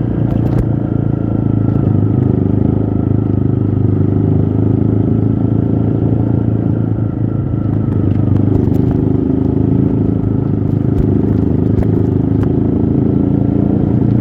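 Off-road trail motorcycle engine running steadily, with a few short rattling clicks.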